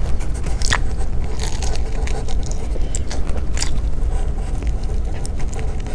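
Close-up eating sounds: chewing and biting into avocado toast on whole-grain bread, with irregular mouth clicks, over a low steady hum.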